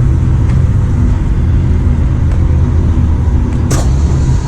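Steady low rumble of car engines running nearby, with a brief sharp noise about three and a half seconds in.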